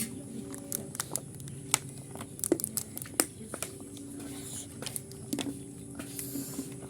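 Close-up eating sounds of pork curry: wet chewing, mouth smacks and irregular sharp clicks, over a faint steady hum.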